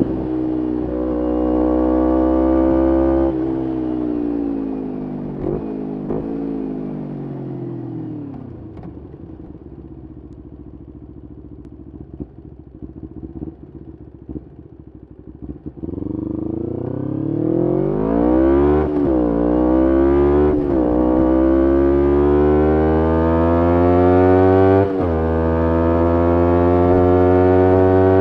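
A 2011 Kawasaki Ninja 250R SE's parallel-twin engine through a full Graves race exhaust, ridden through the gears. It slows with the pitch dropping in steps, then burbles low with crackling on the overrun for several seconds. From about halfway it accelerates hard again, the pitch rising and briefly breaking at four upshifts.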